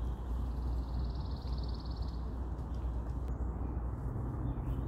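Steady low outdoor rumble, with a bird's rapid, high-pitched trill starting about half a second in and lasting under two seconds.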